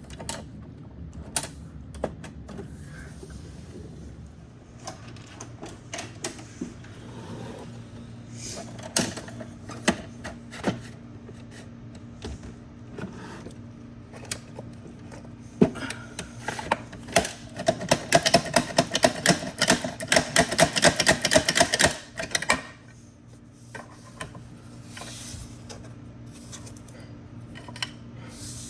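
Plastic clicking and rattling from a toy garbage truck being handled and worked, with scattered single clicks and a dense run of rapid clicks for several seconds past the middle, over a steady low hum.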